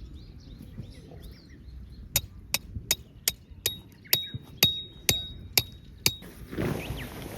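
A hammer striking a metal tent peg about ten times, roughly two blows a second, each a sharp metallic knock with a ringing tone. Birds chirp in the first second or so, and rustling, wind-like noise rises near the end.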